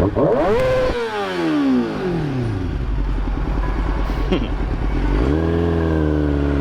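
Kawasaki Ninja ZX-6R's inline-four engine revved sharply once, its pitch then falling away over a couple of seconds. About five seconds in it picks up again and holds a steady pitch.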